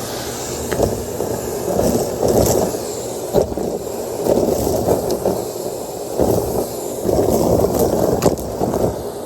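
Numatic Henry canister vacuum cleaner running, sucking up debris from the floor, its sound swelling and easing repeatedly as the nozzle is pushed back and forth. A few sharp clicks break through.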